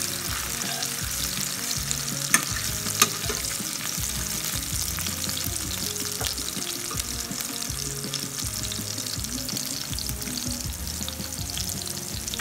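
Sliced canned sausages, green pepper and red onion sizzling in hot oil in a frying pan, stirred with a metal fork. Two sharp clicks, the loudest sounds, come a little after two and three seconds in.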